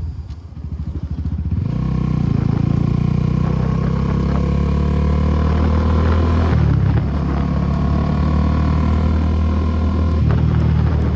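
Suzuki Gixxer SF250's single-cylinder engine through an aftermarket Akrapovic exhaust, under way on the road. It drops to a low, rapid pulsing in the first second or so, then pulls steadily under throttle. It briefly dips and changes pitch about six and a half seconds in and again near the end.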